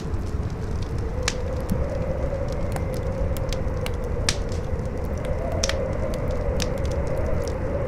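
Wind howling in one wavering tone that slowly rises and falls over a low rumble, with the sharp scattered pops of a crackling wood fire.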